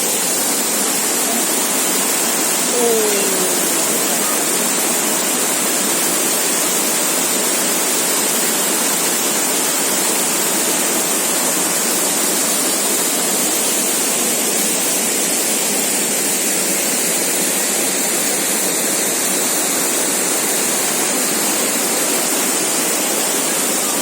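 Steady, heavy rush of fast-flowing water from a waterfall and mountain river, an even dense hiss throughout.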